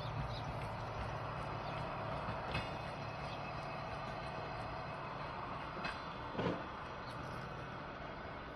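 Freight train of snow-covered container flatcars rolling away along the rails, a steady running rumble that slowly fades. A few short knocks and creaks come from the wagons, the loudest about six and a half seconds in.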